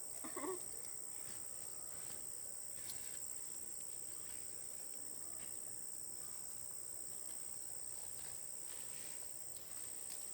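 Steady, high-pitched chorus of insects, one unbroken shrill tone that holds throughout, with a few faint ticks and rustles under it.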